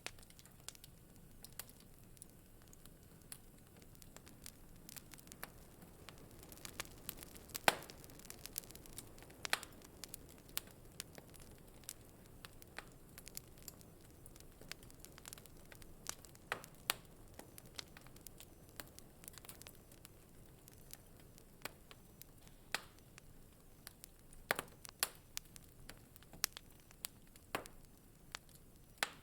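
Wood fire in a fireplace crackling: irregular sharp pops and snaps over a faint steady hiss, with one louder pop about eight seconds in.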